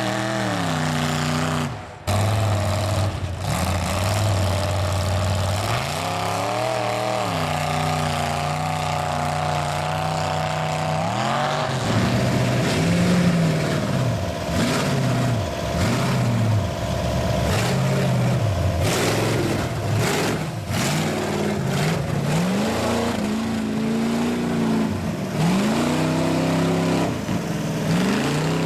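Mud truck's engine revving hard, held high for a few seconds and then repeatedly rising and falling as the throttle is worked.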